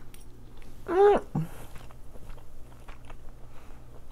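A person chewing a mouthful of baked salmon and noodles, with faint small wet clicks. About a second in there is one short, loud voiced sound that rises and then falls in pitch.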